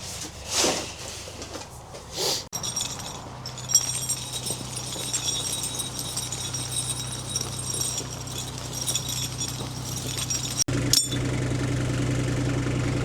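A heavy machine's engine idling steadily, preceded by a couple of short handling noises in the first two seconds. About eleven seconds in, after a sudden break, the engine sounds louder and fuller.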